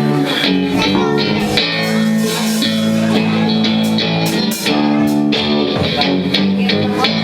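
Rock band playing live: electric guitar chords over bass guitar, with sharp drum and cymbal hits throughout.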